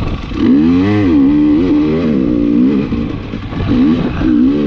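KTM 300 XC-W TPI two-stroke dirt bike engine revving up and down, its pitch rising and falling repeatedly under the throttle.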